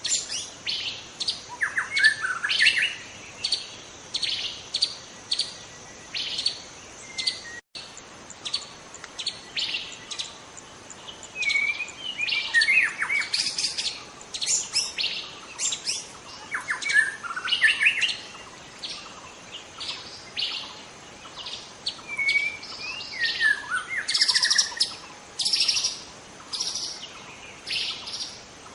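Young white-rumped shama singing a long run of short, sharp chirps repeated a few times a second, mixed with occasional lower whistled phrases that slide in pitch.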